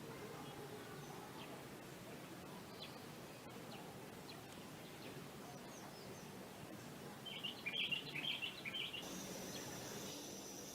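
Faint background hiss with scattered small bird chirps, then a quick run of high, louder chirps about seven seconds in.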